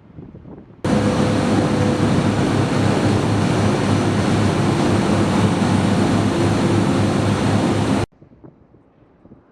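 A loud, steady roar with a few steady hums in it. It cuts in abruptly about a second in and cuts off abruptly near the end, leaving faint wind-like noise.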